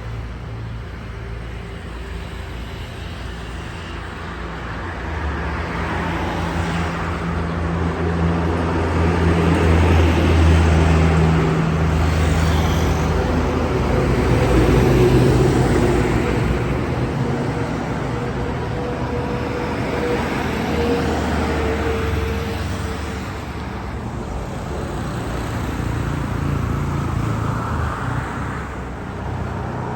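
Road traffic: motor vehicle engines running and passing, with the sound swelling loudest about ten and again about fifteen seconds in.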